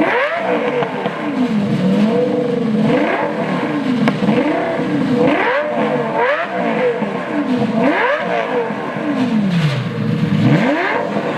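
Lamborghini V10 with a very loud, oversized aftermarket exhaust, revved again and again, its pitch climbing and dropping back about six times.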